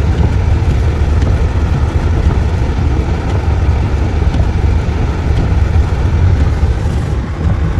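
Steady, even rumble of a vehicle driving on a snow-covered road: engine and tyre noise with no sudden events.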